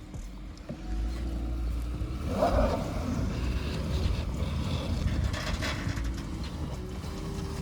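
A car engine running with a steady low rumble, with a brief rushing swell about two and a half seconds in.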